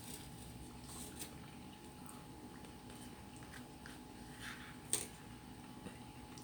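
Someone eating macaroni soup: soft chewing and spoon sounds with scattered small clicks, and one sharp click about five seconds in, over a steady faint hum.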